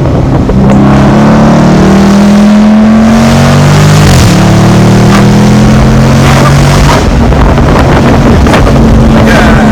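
Dodge Charger Scat Pack's 392 HEMI V8 running under way with its mid mufflers and resonator deleted, loud throughout. The exhaust note climbs slowly, dips sharply and recovers about four seconds in, then holds steady.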